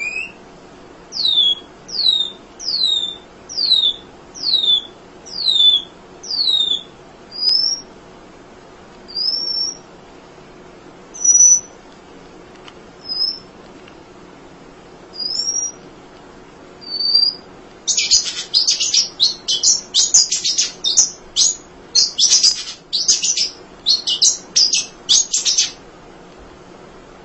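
A munia (emprit) singing: a run of about eight high whistled notes, each falling in pitch, less than a second apart, then scattered short whistles, then a fast dense chattering twitter for about eight seconds that stops shortly before the end.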